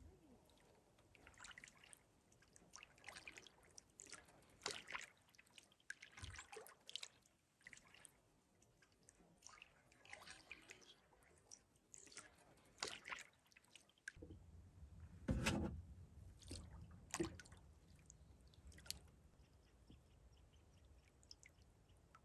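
Faint water drips and small splashes around a kayak, irregular, about one every second or two. A low steady rumble comes in about two-thirds of the way through.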